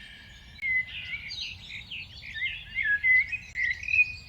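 Many small birds chirping and twittering in a dense, overlapping chorus that picks up about half a second in, over a faint low background rumble.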